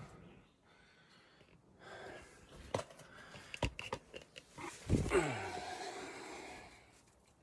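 Scattered scuffs and sharp knocks of someone moving among rocks. About five seconds in comes a short grunt or breathy sigh that falls in pitch.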